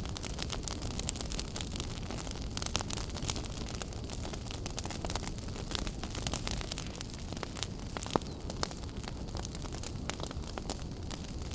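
Wood fire burning in a fireplace: a steady low rumble and hiss of the flames with irregular sharp crackles and pops, a few louder pops standing out.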